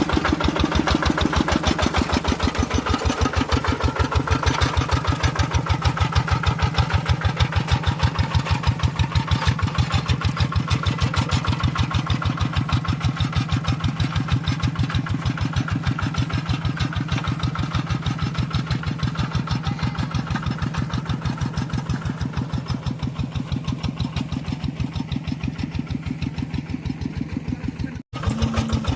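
Tractor engine running steadily with an even, rapid beat, cutting out for a moment near the end.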